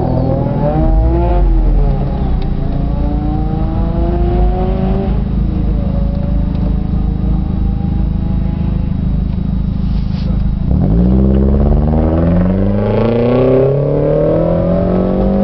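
2008 Honda Civic Si's 2.0-litre four-cylinder engine heard from inside the cabin while driving. Its pitch climbs, holds steadier through the middle, then drops at a gear change about eleven seconds in and climbs again as the car accelerates.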